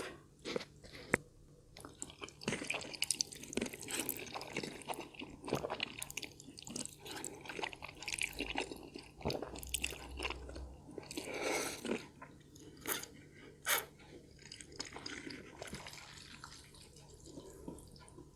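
Chewing and mouth sounds of a person eating, in short irregular bursts.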